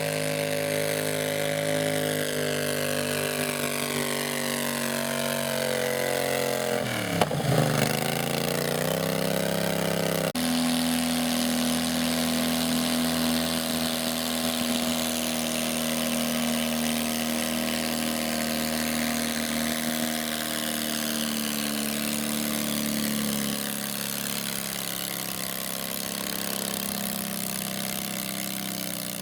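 Small garden tractor engine running steadily. About seven seconds in its speed sags sharply, with a single sharp knock, and then picks back up. It then holds a steady speed and eases off slightly near the end.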